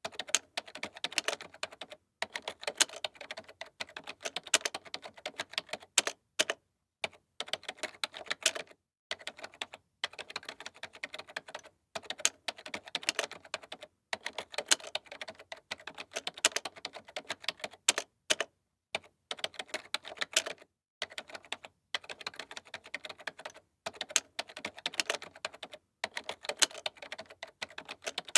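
Typing on a computer keyboard: quick runs of key clicks lasting a second or two each, broken by short moments of silence.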